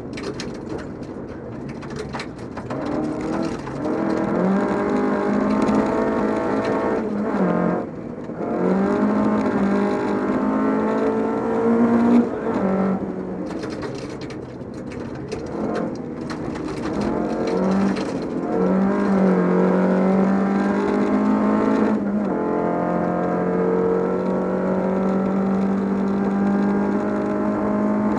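Volvo 242 rally car's engine at full throttle, heard from inside the cabin. The revs climb and drop sharply at each gear change, several times over, with a steady rushing noise underneath.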